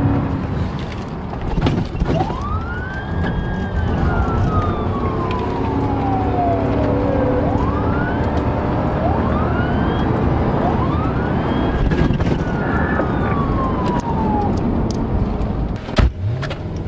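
Police siren wailing, rising slowly and falling in long sweeps with a few quicker rising whoops between them, over the steady engine and road noise of a vehicle on the move. A sharp knock comes near the end.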